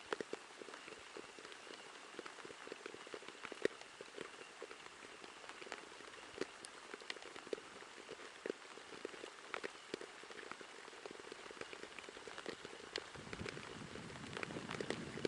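Light rain falling, with many irregular sharp ticks of single drops over a soft steady hiss.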